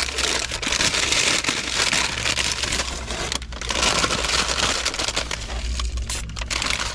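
Paper bakery bag crinkling and rustling as a croissant is handled, a continuous papery crackle with a low steady hum underneath.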